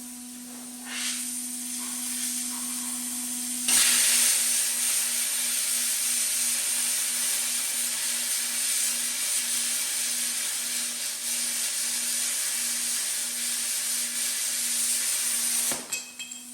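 Plasma cutter cutting steel plate: a steady, loud hiss that starts suddenly about four seconds in and cuts off sharply near the end, over a constant electrical hum.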